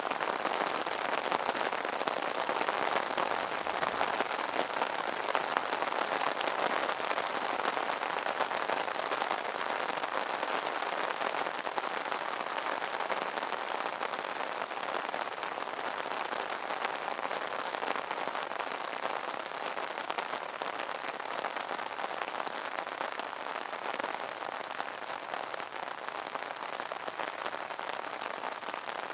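Rain falling on an umbrella canopy: a dense, steady patter of drops hitting the fabric, easing off slightly near the end.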